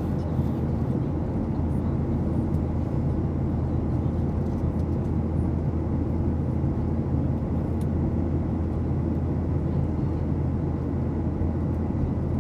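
Steady low roar of a Boeing 737-800 in flight, heard inside the passenger cabin: jet engines and airflow at a constant level.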